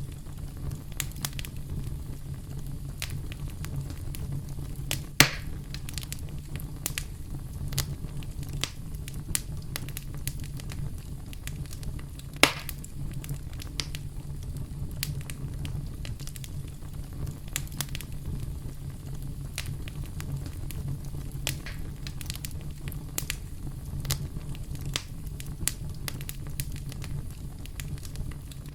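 Campfire burning with a steady low rumble and frequent sharp crackles of burning wood, with two louder pops about five and twelve seconds in.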